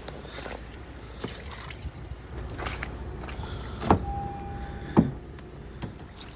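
2015 Honda Civic engine idling with a steady low rumble, with scattered clicks, two sharp knocks about four and five seconds in, and a short steady tone lasting about a second between them.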